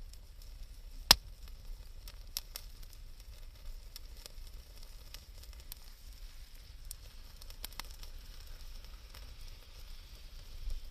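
Wood campfire crackling, with scattered sharp pops over a faint steady hiss; one loud pop about a second in.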